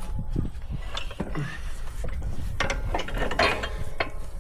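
Irregular metallic clanks, clicks and rattles of heavy truck parts being moved, as the front axle assembly is shifted out from under the frame, over a steady low rumble.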